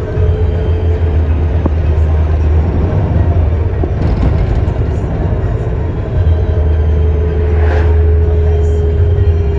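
Vehicle driving: a steady low rumble and road noise, with a steady hum that slowly drops in pitch over the second half.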